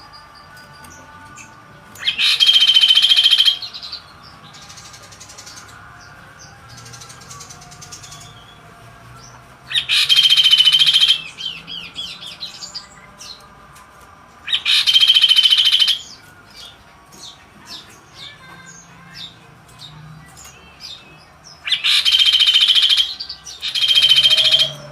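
A kaso-kaso songbird singing in loud, rapid, buzzy bursts of about a second and a half each, five in all, with faint chirps between them.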